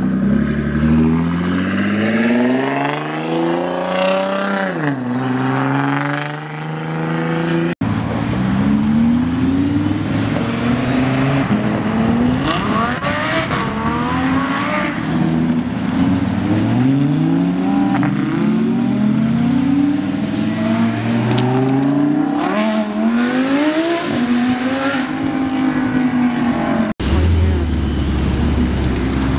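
Car engines accelerating hard, their pitch climbing and dropping again and again as they rev and shift gears. The sound breaks off abruptly about eight seconds in and again near the end.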